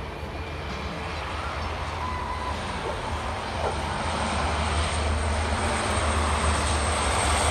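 Aircraft engines with a steady low rumble, growing louder as the plane approaches.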